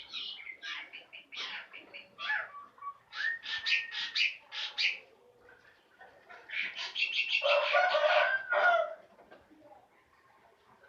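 A songbird singing in rapid chattering bursts of high notes, first in a broken run and then in a louder, denser spell about two-thirds of the way in, which stops near the end.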